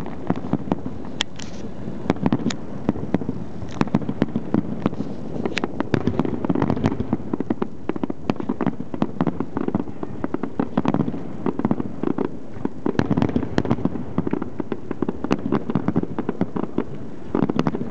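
Fireworks crackling and popping in a dense, unbroken barrage of many rapid irregular bangs over a low rumble.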